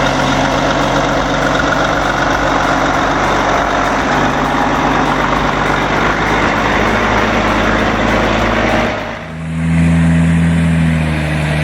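Heavy truck engine running steadily. About nine seconds in, the sound changes to a different, smoother engine hum.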